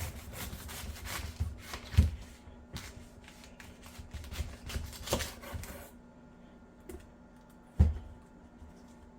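Knife cutting through a head of green cabbage on a cutting board: crisp crunching and crackling for about six seconds, with two heavy knocks, about two seconds in and near the end.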